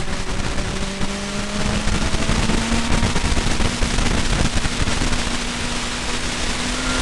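Car engine heard from inside the cabin, its pitch rising slowly as the car accelerates, over a heavy, crackling rumble of wind and road noise.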